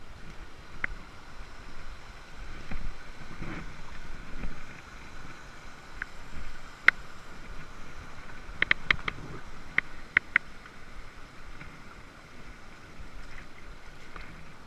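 Wood campfire crackling, with scattered sharp pops, several in quick succession about two-thirds of the way through, over a steady rushing background.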